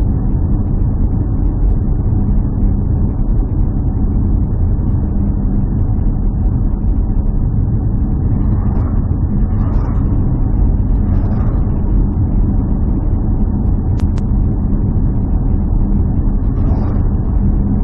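A motor vehicle running steadily: a continuous low drone with a steady hum.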